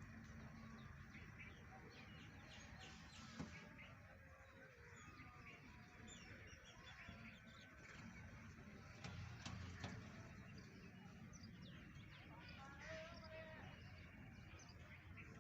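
Faint birdsong: many small chirps and twittering calls over a low, steady background rumble.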